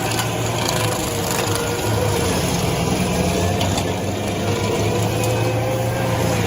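A heavy machine's engine running steadily at a constant pitch, with a low hum and a held higher tone.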